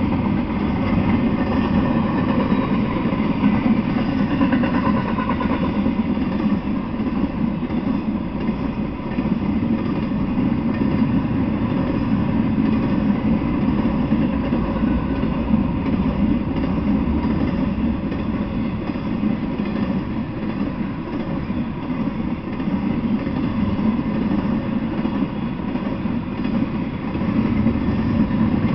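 Intermodal freight train of double-stack container well cars rolling past: a steady, unbroken noise of steel wheels running on the rails.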